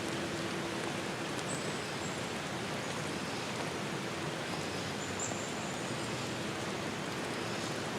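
Steady rushing forest ambience, an even hiss with a few faint, short, high-pitched chirps scattered through it.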